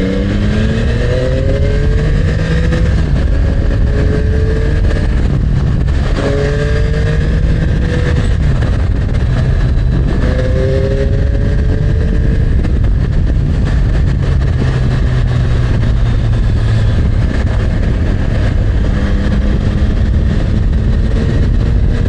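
Yamaha MT-09's inline three-cylinder engine under way, its pitch rising several times as it accelerates through the gears: about a second in, around six seconds in and around ten seconds in, with a steady low rumble underneath.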